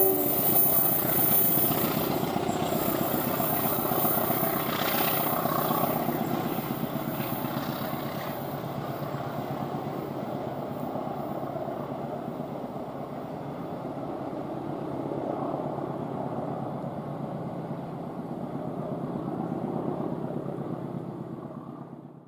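A train rumbling past on the line, with a rapid pulsing clatter. It eases off over the first several seconds, then runs on steadily with slight swells, and cuts off suddenly at the end.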